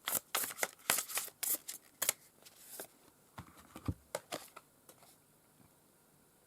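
Tarot cards being shuffled by hand: a quick run of card flicks and slaps that thins out about three seconds in and stops around five seconds in.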